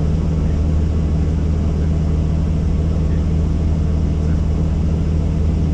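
Helicopter engine and rotor running, a loud, steady low drone with no change in pitch or level.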